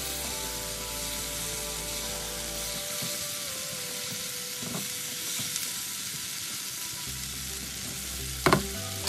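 Okra sizzling as it fries in a non-stick frying pan, stirred with a silicone spatula, while its slime cooks off. One sharp knock about a second before the end.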